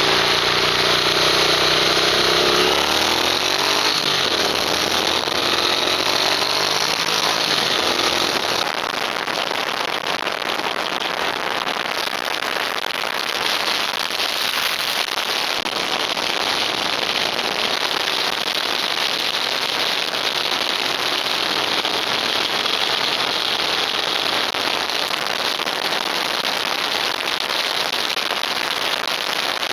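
A vehicle engine's tones fall and waver in pitch over the first few seconds and fade by about eight seconds in, leaving steady wind noise buffeting the action camera's microphone.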